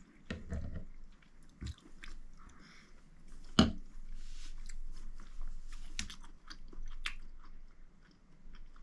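A person chewing a mouthful of rehydrated backpacking meal of soft meat and noodles in sauce, close up, with wet mouth clicks scattered throughout and one sharper click about three and a half seconds in.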